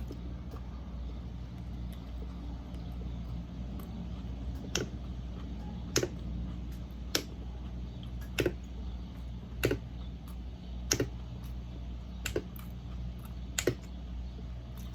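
A person chewing a mouthful of taco, with a sharp mouth click or crunch about every second and a bit, over a steady low hum.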